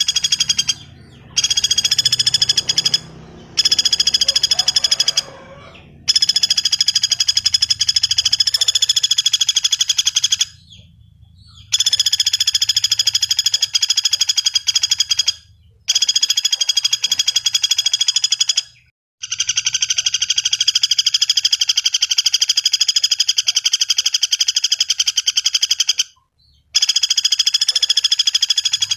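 Pelatuk bawang woodpecker calls: long, rapid, rattling trills repeated one after another with short breaks between them, about eight in a row, the longest lasting several seconds.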